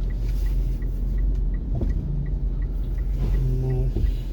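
Car engine and road rumble heard inside the vehicle, steady and low. A light, regular tick sounds about three times a second throughout.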